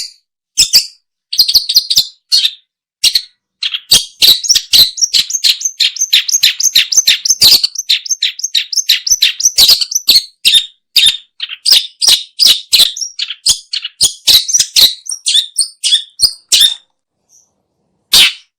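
Long-tailed shrike (pentet/cendet) calling: short sharp notes that run together into a fast chattering string through the middle, then come more spaced out, stopping briefly near the end.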